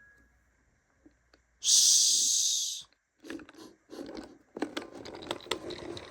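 A loud burst of hiss lasting about a second, starting about a second and a half in. After it comes a run of irregular clicks and rustles, like handling noise.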